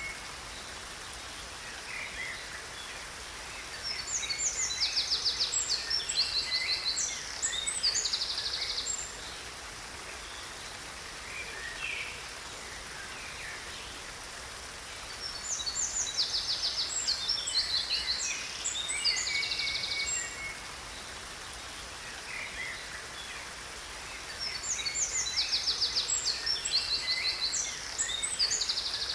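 A songbird singing bouts of rapid trills and chirps, a few seconds each, coming back about every ten seconds. Beneath it runs a steady hiss of falling water.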